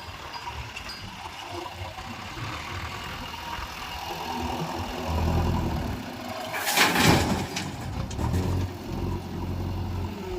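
Diesel engine of a backhoe loader at work, its low running sound growing louder about five seconds in. Around seven seconds in there is a loud, noisy burst lasting about a second.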